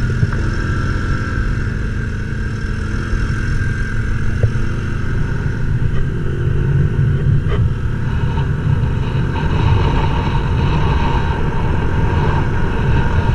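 Motorcycle riding along the road, its engine running with a steady low rumble.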